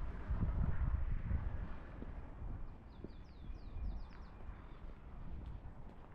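Wind rumbling on the microphone, strongest in the first two seconds, with a small bird's quick trill of about eight short, falling chirps a little under three seconds in.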